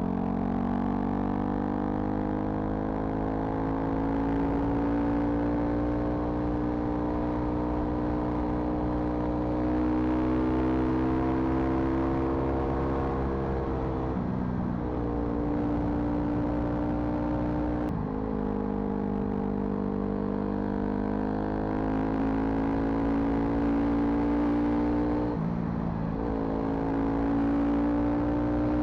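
Car engine running under way, its pitch climbing slowly and then dropping abruptly about fourteen seconds in and again near twenty-five seconds, with a couple of brief knocks.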